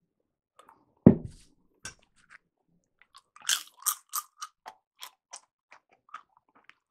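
A person eating a spoonful of chili, chewing with the mouth open: a run of wet clicks and smacks, busiest about halfway through. A single dull thump comes about a second in and is the loudest sound.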